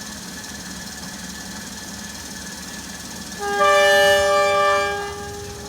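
Horn of an RHN diesel railcar train giving one loud, steady two-note blast of about two seconds, over the steady hum of the railcar's diesel engine.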